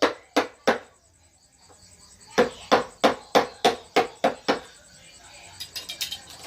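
Mallet blows on a wood-carving chisel, about three strikes a second: three at the start, a run of eight after a pause, then a quick flurry of lighter taps near the end.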